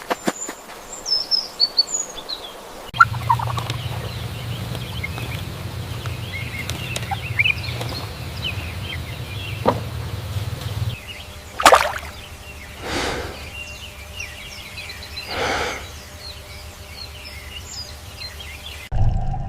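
Domestic turkeys gobbling, three loud gobbles in the second half, over small birds chirping.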